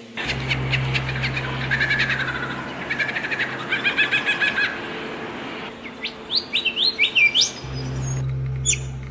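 Songbirds chirping and singing: rapid repeated chirps and trills through the first half, then a quick series of short rising whistles. A steady low hum runs underneath, dropping out briefly in the middle.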